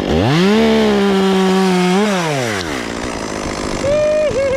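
Chainsaw revved up to full throttle, held for about two seconds, then let back down toward idle. Near the end a higher, wavering tone comes in briefly.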